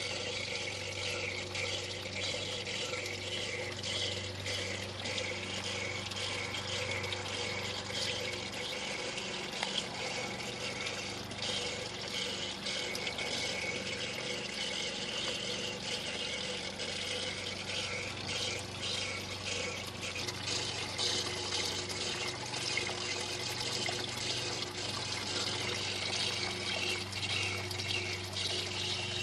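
Cleaning solution splashing and trickling steadily as a small electric solvent pump recirculates it through a hose, flushing metal debris out of a Sea-Doo RXT 215 engine after a blown supercharger. A steady low hum from the pump runs underneath, fading for a few seconds about ten seconds in.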